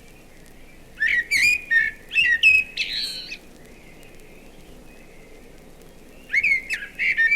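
Common blackbird singing: two fluting, warbling phrases, the first about a second in and ending in a squeaky twitter, the second starting near the end.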